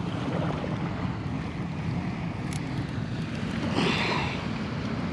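Steady rushing outdoor noise of wind on the microphone and moving water, with a brief louder rush about four seconds in.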